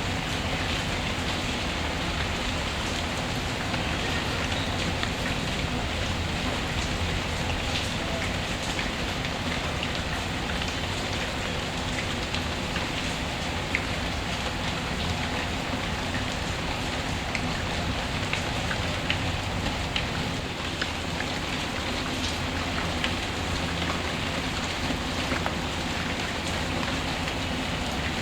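Steady rain ambience with a crackling fireplace: an even wash of rainfall with small scattered pops and ticks.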